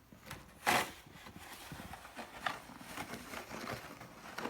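A snow shovel scraping through fluffy snow on a paved driveway: one loud scrape about a second in, then fainter scuffs and crunches.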